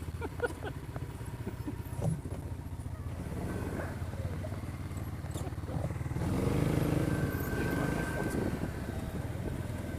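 ATV engine running under load while working through a tight turn in four-wheel drive, revved up harder about six seconds in. A few brief knocks in the first couple of seconds.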